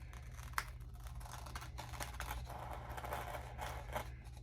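Scissors cutting magazine paper, with irregular snips and paper rustling and a sharp click about half a second in, over a steady low hum.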